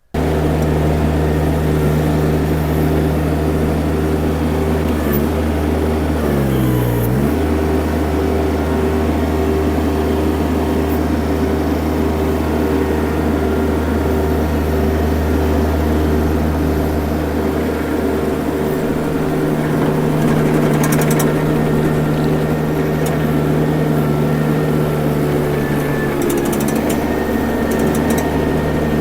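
Mini skid steer's engine running steadily at working speed while the machine pushes material, with its pitch dipping briefly and coming back up about six to seven seconds in as it takes load.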